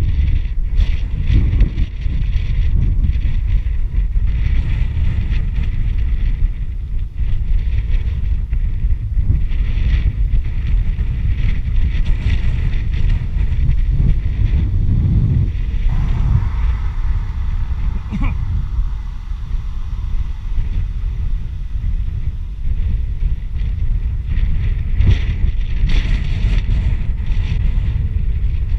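Wind buffeting the microphone of a moving bicycle: a steady low rumble.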